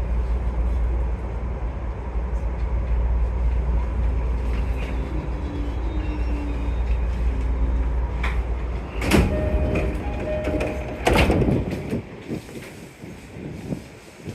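Inside a JR Kawagoe Line electric commuter train pulling into its terminus: a steady low running rumble that fades after about nine seconds, then two loud hissing bursts of air about two seconds apart as the train stops and its sliding doors open.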